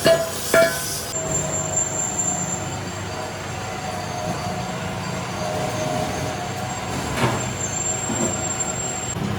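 Two sharp metallic knocks about half a second apart, then steady machine running noise with a wavering squeal of metal on metal.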